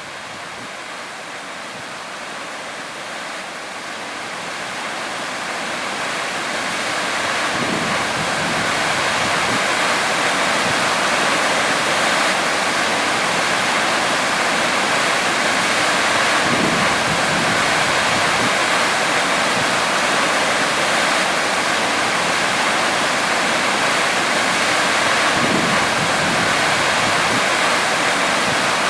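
Steady rush of water that grows louder over the first several seconds and then holds even.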